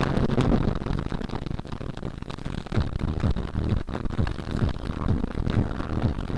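Thunder rumbling and crackling on after a close lightning strike, a continuous rough low rumble.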